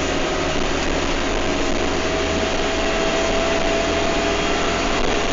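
Bus engine and running noise heard from inside the passenger saloon while on the move: a steady rumble and rush, with a faint whine that rises slightly in pitch partway through.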